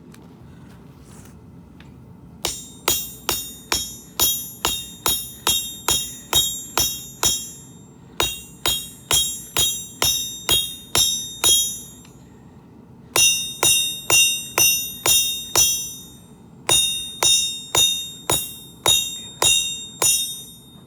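Blacksmith's hammer striking steel on an anvil in four runs of steady blows, about two to three a second, with short pauses between runs; each blow rings with a high metallic tone, as the piece is hammered flat.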